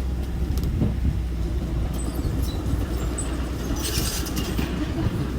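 Engine of a small construction machine running steadily, with short squeaks and a burst of metallic rattle about four seconds in.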